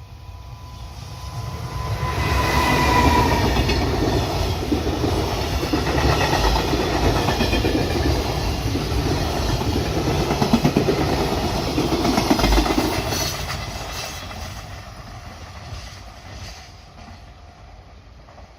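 Freight train passing by, its wheels clattering over the rails. It builds up over about two seconds, stays loud for about ten, then fades away.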